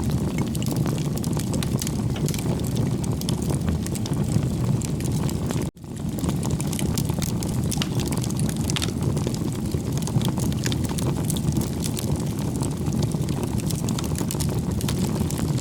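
Wood fire burning with a steady low rumble and many small crackles and pops. The sound drops out for a split second a little under six seconds in.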